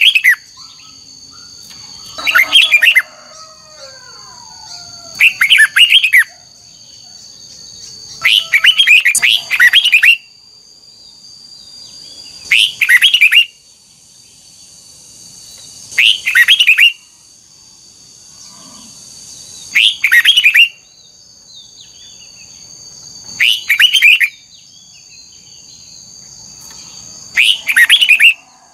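Red-whiskered bulbul singing short, loud warbling phrases of about a second each, repeated roughly every three and a half seconds. A steady high-pitched whine runs underneath.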